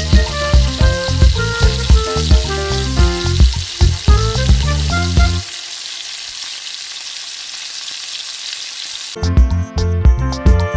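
Chicken leg pieces frying in hot oil, a steady sizzling hiss. Background music with a beat plays over it for the first half, stops for a few seconds leaving the sizzle alone, and comes back near the end.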